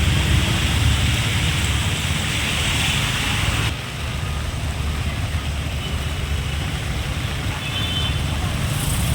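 Motor vehicle traffic, engines running low and steady, with a steady hiss on top that drops away suddenly about four seconds in.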